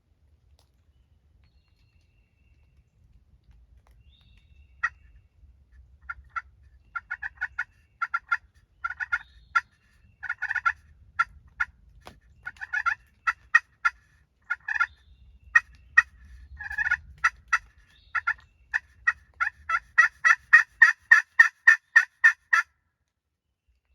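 Turkey yelps and clucks: short sharp notes, scattered at first from about five seconds in, then a fast even run of about five notes a second near the end.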